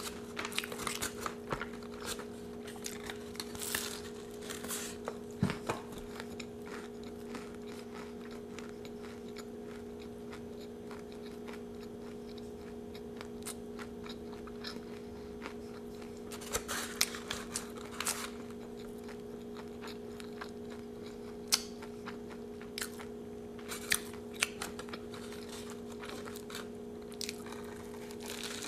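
Close-miked chewing and crunching of a Doritos taco wrap, in scattered clusters of crisp crackles with quieter chewing between, and a fresh bite near the end. A steady hum runs underneath.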